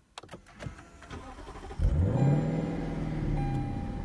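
Lexus LC500's 5.0-litre V8 starting up about two seconds in after a few light clicks, flaring briefly in revs and then settling into a steady, fast idle.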